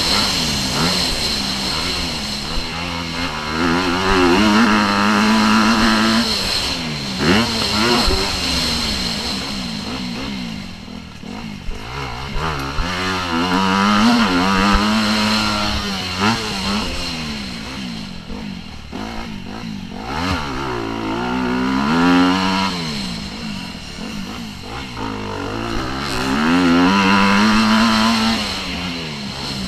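Motocross bike engine being ridden hard, revving up and dropping back again and again as the rider works the throttle and gears through the track.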